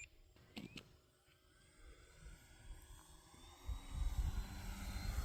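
Radio-controlled model plane's motor and propeller whining overhead, rising in pitch and growing louder over the last couple of seconds.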